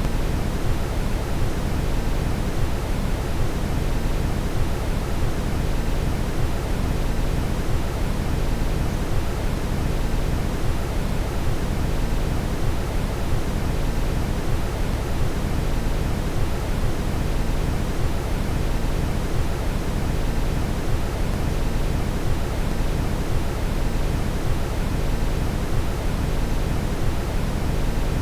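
Steady brown noise: an even, deep hiss weighted heavily toward the bass, unchanging throughout.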